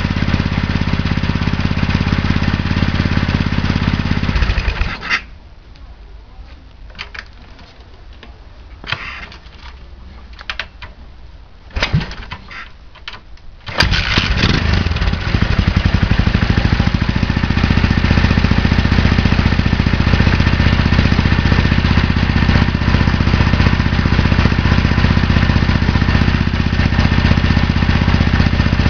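The Yamaha SR500's single-cylinder four-stroke engine running, then dying about five seconds in. After several quiet seconds broken by knocks and a short burst from kick-start attempts, it fires on a kick about halfway through and runs steadily again.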